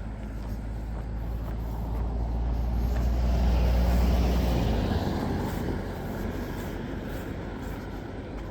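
A motor vehicle passing by: a low engine hum and rushing tyre noise swell to a peak about four seconds in, then fade away.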